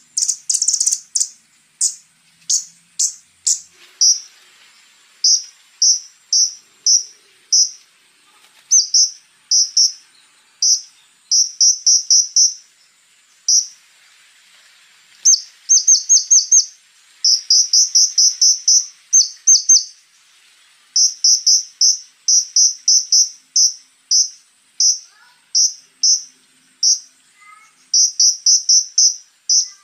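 Konin (scarlet-backed flowerpecker) calling: short, sharp, high chips fired in quick runs of several notes with brief pauses between, over a thin steady high tone.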